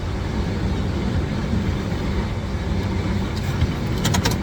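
Car engine running steadily at low speed as the car is eased forward a couple of inches. A quick run of light, sharp clicks comes near the end.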